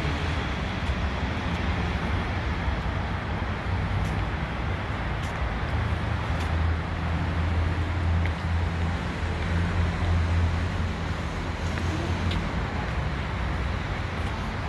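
Electric commuter train running, heard from inside the carriage: a steady rumble with a low hum and a few faint ticks.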